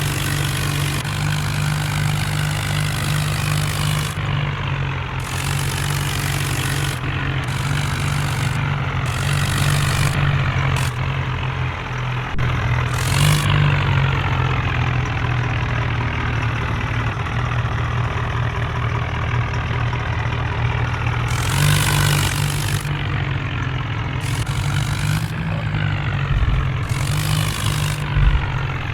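Diesel tractor engines running at idle, with the engine note slowly rising and falling. A few short, loud rushes of hiss break in, one near the middle and two in the last third.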